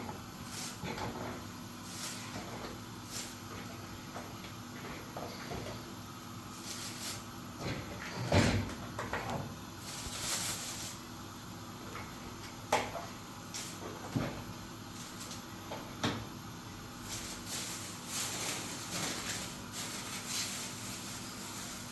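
Scattered knocks and clicks at irregular intervals, the loudest about eight seconds in and again near thirteen seconds, over a steady low hum.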